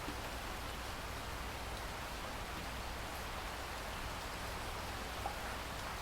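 Steady rainfall: an even hiss of many drops falling, with a single small tick a little after five seconds in.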